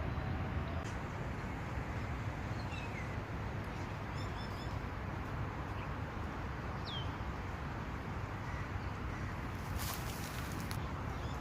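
Outdoor park ambience: a steady low background hum with a few faint bird chirps, including one falling whistle about seven seconds in, and a brief hiss near ten seconds.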